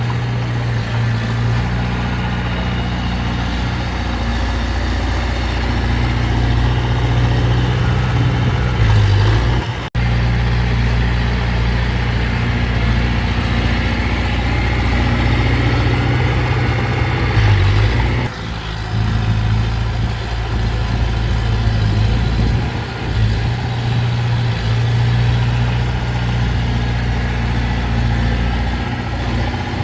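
Heavy diesel engine of earthmoving machinery running steadily at a low, even speed, with a brief break about a third of the way through.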